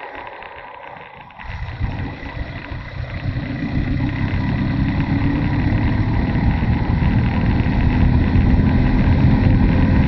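Motorcycle engine, quiet for about the first second and a half, then pulling under load and growing steadily louder.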